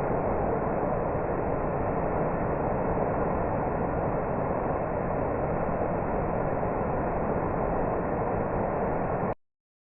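Waterfall's steady rush of falling water, cutting off abruptly near the end.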